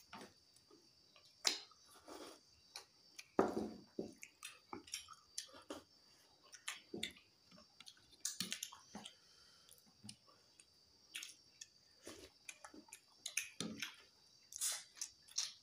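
Close-up eating sounds: wet chewing and lip smacks with irregular clicks and squishes as rice and fish are eaten by hand. A faint steady high whine runs underneath.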